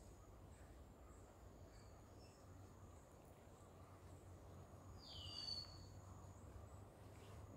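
Near silence with a faint steady high insect drone and a single short bird call about five seconds in.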